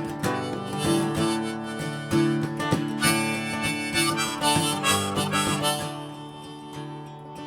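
Harmonica playing an instrumental break over strummed acoustic guitar. The harmonica drops out about six seconds in, leaving the guitar strumming.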